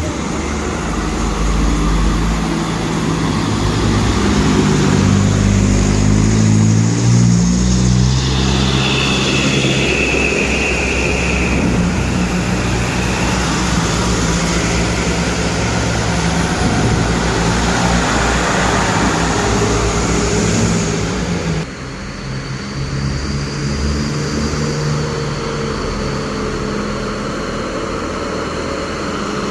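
Medium trucks' diesel engines running and revving up and down as they drive in a convoy, the engine pitch stepping up and down. The sound changes abruptly about 22 seconds in.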